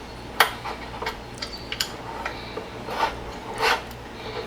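Screwdriver prying the metal tabs of a Uconnect 8.4 radio's metal housing: scattered sharp metallic clicks and scraping, the loudest click about half a second in, over a steady low hum.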